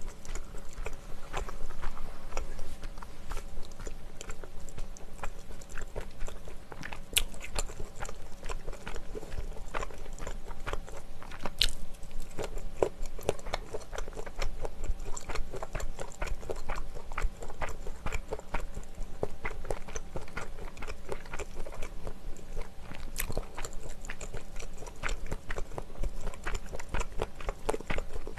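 Close-miked chewing and biting of mouthfuls of mala xiang guo, a spicy Chinese stir-fry. The chewing is a continuous run of small clicks, with a few sharper clicks, the loudest about twelve seconds in.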